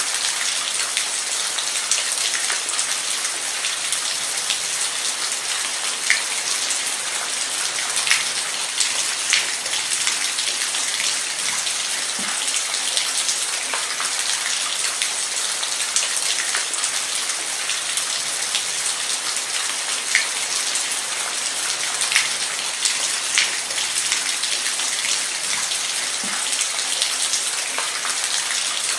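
Steady heavy rain: a dense, even hiss with individual drops ticking sharply now and then.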